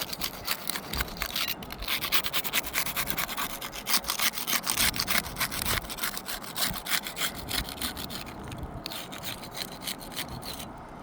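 Putty knife scraping under an old three-tab asphalt shingle to break its seal strip, a rapid scratchy rubbing in quick strokes that eases off over the last few seconds.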